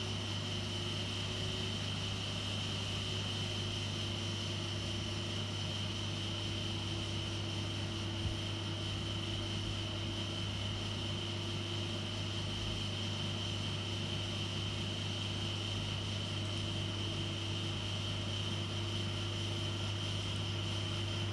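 A steady, unchanging hum with a constant high whine above it, and a single faint click about eight seconds in.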